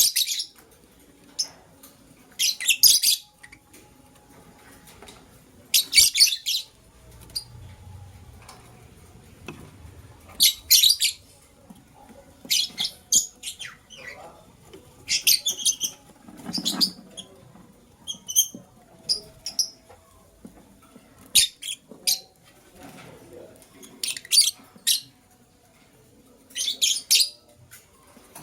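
Lovebird chirping in short bursts of rapid, high-pitched chirps, repeated every two to three seconds.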